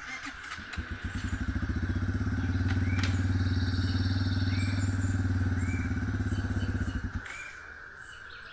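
Four-stroke dirt bike engine turning over and running in a steady pulsing rhythm for about six seconds, then stopping about seven seconds in. The bike had just been dropped on the hill.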